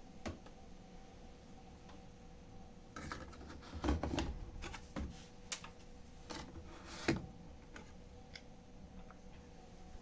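Old Candy washing machine: a faint steady hum with irregular clicks, knocks and rattles, busiest around three to four seconds in and again about seven seconds in.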